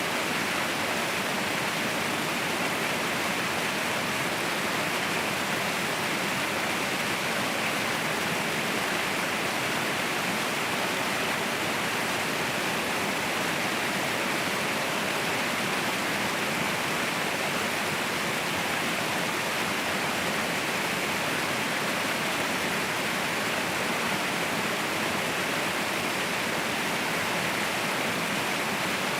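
Mountain waterfall roaring, a steady even rush of falling water with no breaks.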